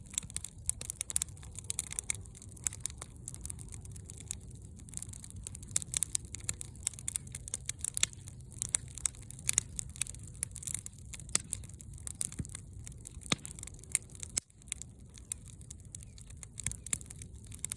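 Wood fire crackling: irregular sharp pops and snaps, several a second, over a low steady rumble of the flames.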